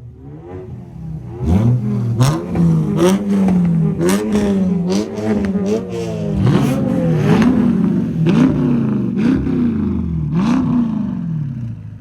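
A car's engine revved hard again and again through a loud aftermarket exhaust, the pitch climbing and dropping in quick blips from about a second and a half in, with sharp exhaust pops cracking out between revs.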